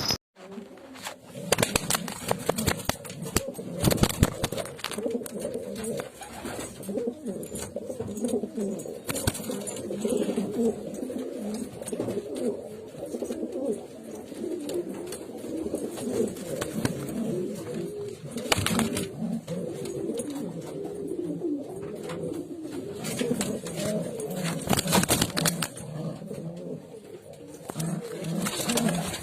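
Many domestic pigeons cooing at once, their low, wavering calls overlapping without a break, with a few sharp clicks here and there.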